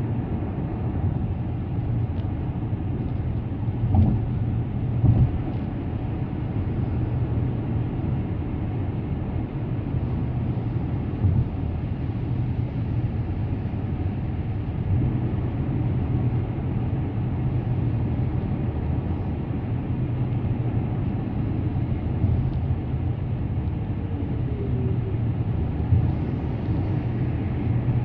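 Car driving on an expressway: a steady low rumble of road and engine noise, with two brief thumps about four and five seconds in.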